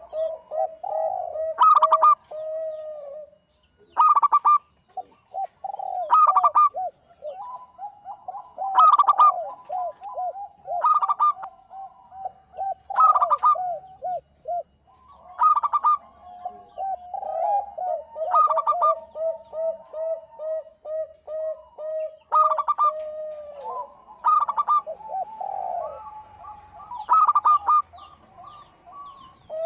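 Zebra doves (local perkutut) cooing. Loud clusters of pitched notes come about every two seconds over a near-continuous run of rapid, trilling coos from several birds.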